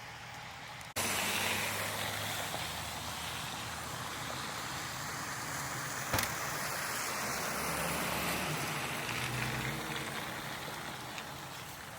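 A motor vehicle running, with a steady hiss of road or tyre noise over a low engine hum. It starts abruptly about a second in, and there is one sharp click about six seconds in.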